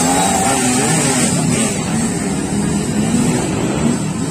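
Small motorcycle engines running loud and steady, their pitch wavering up and down with the throttle.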